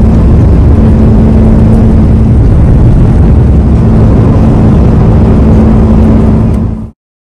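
Jet airliner engines running loud: a heavy rumble with a steady hum, which stops abruptly near the end.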